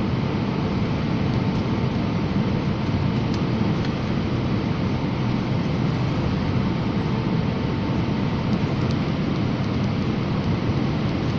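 Steady roar of an airplane in flight as heard from inside the cabin: engine and airflow noise, deep and even, with a faint steady hum underneath.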